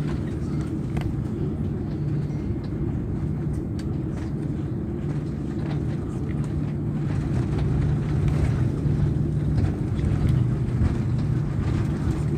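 Cabin noise of an Airbus A340 during its landing: a steady low rumble with scattered small rattles and knocks, growing louder about halfway through.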